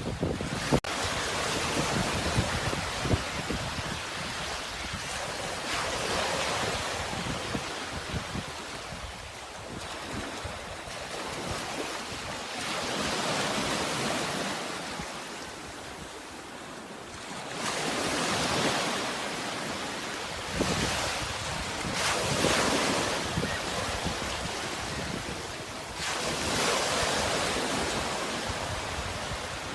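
Sea waves breaking and washing on a shore, the surf swelling and fading every few seconds.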